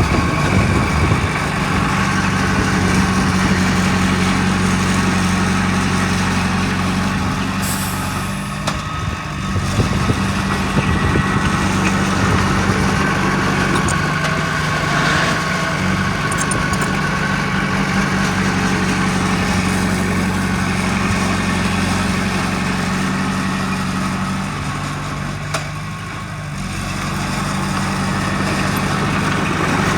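Heavy diesel engine of earthmoving machinery running steadily, its pitch stepping up and down a few times as the load changes, with brief drops in level about nine and twenty-six seconds in.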